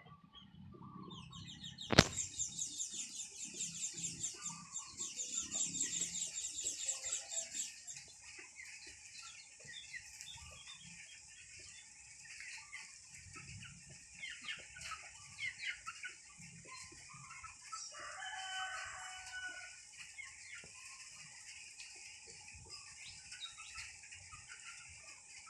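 Birds chirping and calling, with a fast run of high-pitched chirps after a sharp click about two seconds in. High calls continue after that, and a lower call with several tones stands out about two-thirds of the way through.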